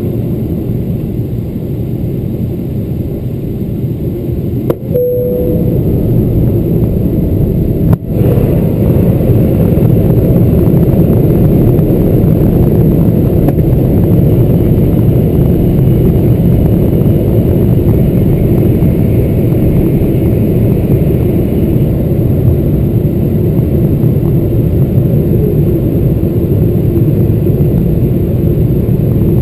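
Steady rumble of engines and airflow inside a Boeing 777-300ER cabin during the approach. A short single tone sounds about five seconds in, and a sharp click comes near eight seconds, after which the rumble is louder.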